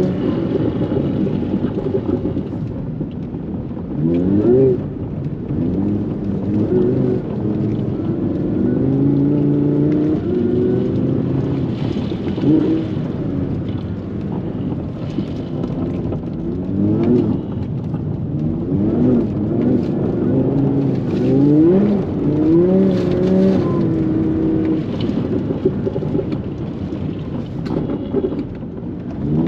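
Engine of an MTM-tuned Audi R8 of over 800 PS, driven hard on ice: the revs climb and drop again and again with the throttle, with several quick rises in pitch and some stretches held high.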